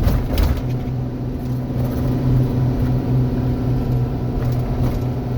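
Steady drone of a car's engine and road noise heard inside the cabin while driving, with a short noisy knock or rustle right at the start.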